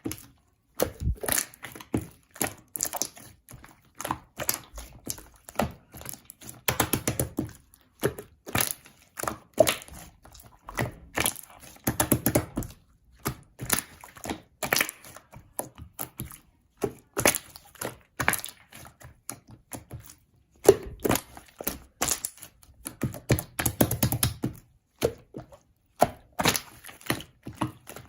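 Slime being pressed and squeezed by hand, making a continuous run of sticky clicks and small air pops, with denser, fuller squelching stretches every few seconds.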